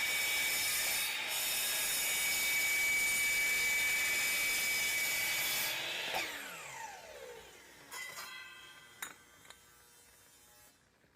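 Power saw with a fine-tooth wood blade cutting aluminum, running steadily with a high tone. About six seconds in it is switched off and the blade spins down with a falling whine, followed by a couple of knocks.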